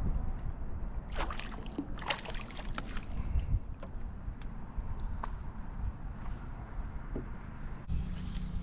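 Small knocks and splashes around a canoe on open water, several short sharp clicks in the first few seconds, over a steady high-pitched insect drone.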